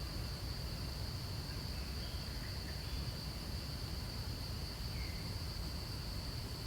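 Steady high-pitched insect drone over a low rumble, with a few faint short chirps.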